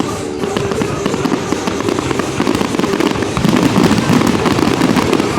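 Fireworks exploding in a rapid, dense barrage of bangs and crackles, growing louder about three and a half seconds in.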